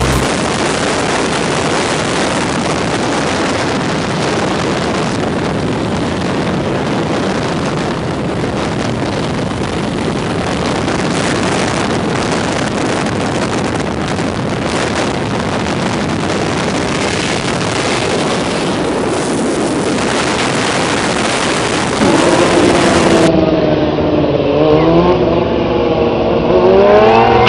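A loud, steady rush of motorcycle noise for most of the stretch. About 22 seconds in it changes to several motorcycle engines revving, their pitch rising and falling.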